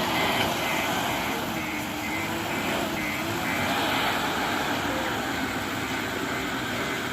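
JCB backhoe loader's diesel engine running, its note wavering up and down, with the reversing alarm beeping about twice a second until about three and a half seconds in.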